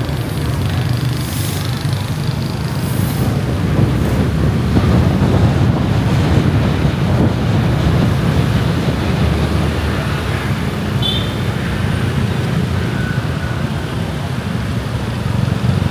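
Riding on a motorbike through city traffic: a steady rush of wind on the microphone mixed with motorbike engine and road noise.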